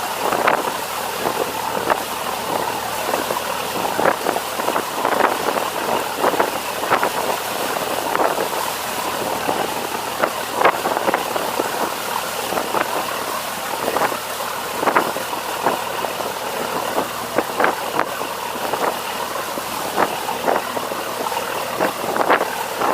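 Fishing boat's engine running steadily while under way, with wind noise and frequent irregular short bursts over it.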